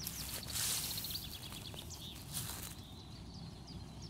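Small songbird singing: a run of quick, high chirps, each sweeping downward in pitch, over a faint steady background. A short hiss sounds about half a second in.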